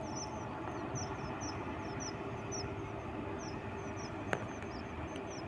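Steady low rumble of an idling engine, most likely a train's, with a held hum. Short high chirps repeat about three to four times a second over it, and a single sharp click comes about four seconds in.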